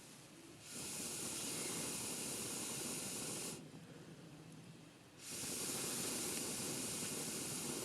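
Air blown into a campfire in two long puffs of about three seconds each, a steady hiss with a short pause between them to draw breath.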